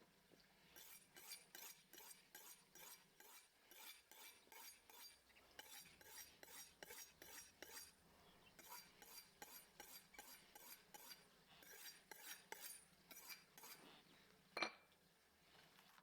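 Faint metal utensil working against a dish in quick repeated strokes, about three a second, in runs with short pauses, then a single sharper click near the end.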